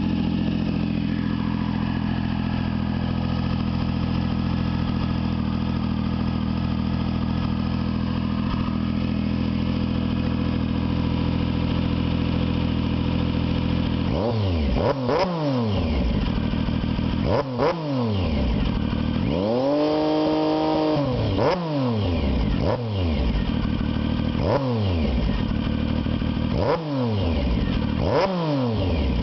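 Triumph Sprint 955i's three-cylinder engine through an XB08 Extremeblaster slip-on muffler, idling steadily, then revved in a run of about seven quick throttle blips from about halfway through, one held a little longer, each dropping back to idle. The exhaust note is throaty.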